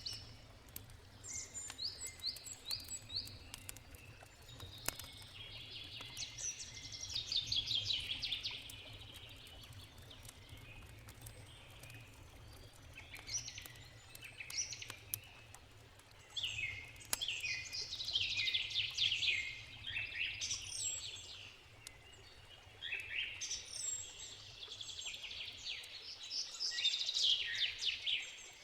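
Songbirds singing repeated phrases of rapid, chirping notes, with pauses between songs, over the occasional crackle of a wood campfire.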